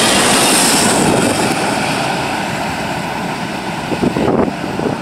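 Freight train's loaded flatcars passing at speed on the rails, a loud rush of wheel and wind noise that dies away after about a second as the end of the train goes by and recedes. A few brief thumps near the end.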